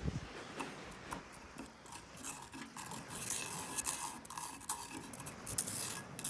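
A metal utensil scraping and rubbing against a pot, in uneven strokes with scattered clicks and ticks.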